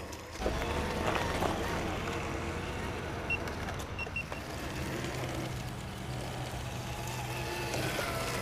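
Traxxas TRX-4 RC crawler's electric motor and drivetrain whining as it drives, the pitch wavering up and down with the throttle. The whine starts about half a second in.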